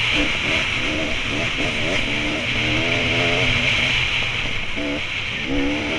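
Dirt bike engine heard from on the bike, its revs rising and falling again and again with throttle and gear changes over a steady hiss.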